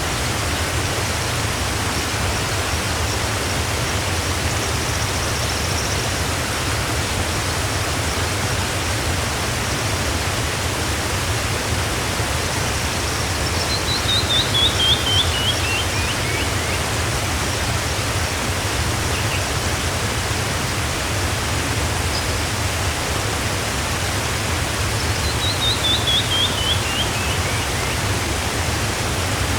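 Steady rushing of a waterfall, with a bird twice singing a quick run of notes that falls in pitch, about halfway through and again near the end.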